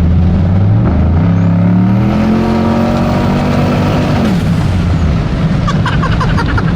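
Turbocharged 5.3-litre V8 truck engine accelerating hard, its note climbing steadily, with a high thin turbo whine rising over it about a second in. About four seconds in the throttle lifts: the whine stops and the engine note drops.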